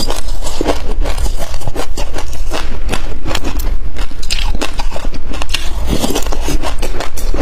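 Close-miked chewing of mouthfuls of sesame seeds: a dense run of small sharp crunches and crackles, with a metal spoon scraping up more seeds from the dish.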